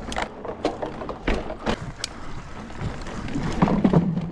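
Mountain bike being ridden over rough trail: irregular knocks and rattles over a low tyre rumble, which gets louder in the last second or so.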